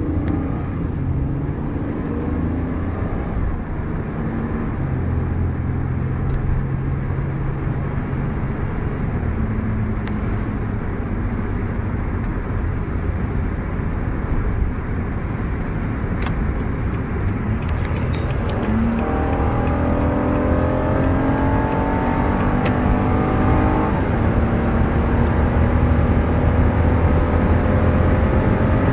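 Toyota Camry's 3.5-litre V6 accelerating hard at high speed, heard from inside the cabin over steady wind and road noise. In the last third the engine note climbs slowly in pitch and gets louder as the revs build in a high gear.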